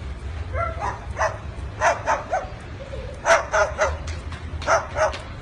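Cockatiel imitating a dog's bark: about a dozen short yapping calls, mostly in twos and threes.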